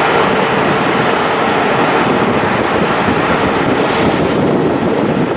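Steady rushing noise beside a stationary Hitachi Blues HTR412 regional train, with wind on the microphone.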